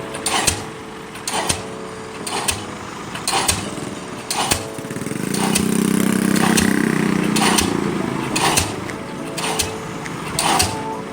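Pile-driving hammer striking a ground pile about once a second, each blow a sharp bang, over the steady drone of the rig's engine, which swells for a few seconds midway.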